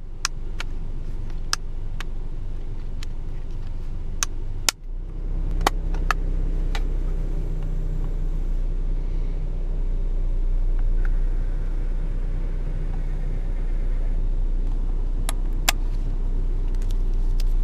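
Steady low rumble of a car idling, heard from inside the cabin. Over it come a dozen or so sharp plastic clicks from handling a DYMO handheld label maker: its tape cassette being snapped in and its keys being pressed.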